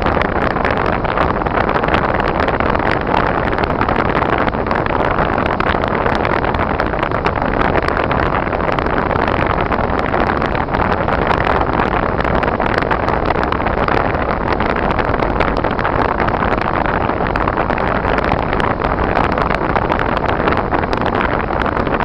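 Car driving at a steady speed on a wintry road: a constant rush of tyre and road noise with the engine underneath.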